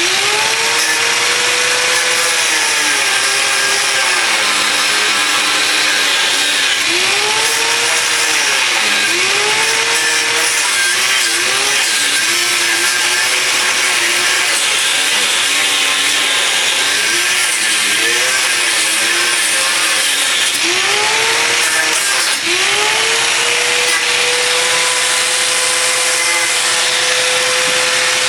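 Angle grinder cutting the rivets of an original riveted upper control arm ball joint. The motor pitch sags and recovers again and again as the wheel is pressed in and eased off, then runs steady near the end.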